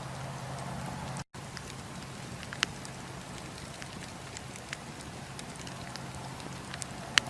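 Wood fire burning in a fireplace: a steady hiss with scattered sharp crackles and pops, the loudest about two and a half seconds in and again near the end. The sound drops out completely for a split second just over a second in.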